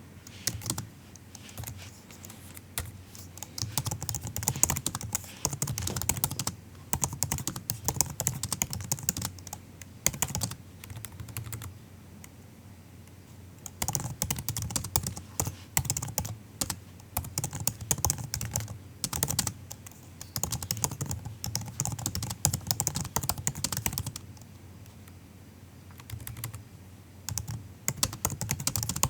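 Soft typing on a MacBook laptop keyboard: fast runs of light key clicks in bursts, with short pauses between them.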